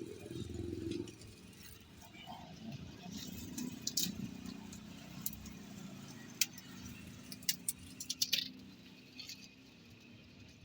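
Scattered sharp clicks and light rattling of small hard objects being handled, over a low steady rumble, with a quick cluster of clicks about eight seconds in.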